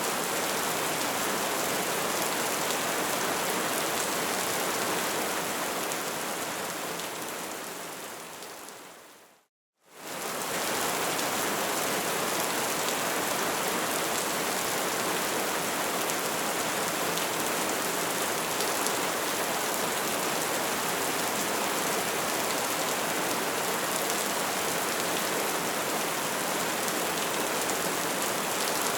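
Bonfire burning with a dense, steady crackle. About seven seconds in it fades away to silence, then comes back a moment later, as at the seam of a looped recording.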